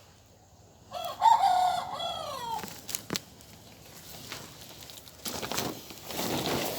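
A rooster crows once, about a second in, a single pitched call lasting about a second and a half. Near the end a rustling noise starts.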